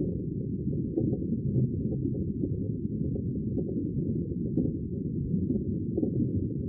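Steady, muffled rumbling wash of sea water, with only the deep low end of the sound left.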